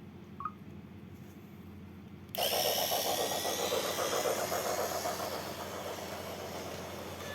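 A small motor-driven machine starts abruptly about two and a half seconds in with a loud whirring rattle, after a faint steady hum.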